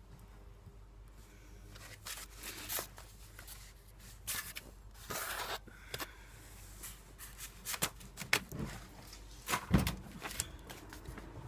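Scattered clicks, knocks and scrapes of hand tools and metal parts being handled during motorcycle oil pan work, irregular and starting about two seconds in, with the sharpest knocks near the end.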